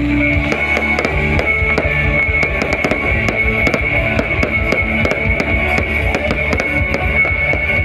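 Live rock band playing loudly through a concert PA, with drum kit hits and electric guitar.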